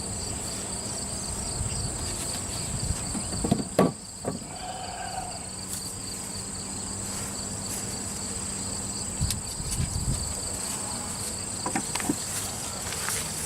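A steady high-pitched insect chorus over a faint low hum of honey bees at an open hive, with a few sharp wooden knocks and bumps from handling the hive boxes, the loudest about four seconds in.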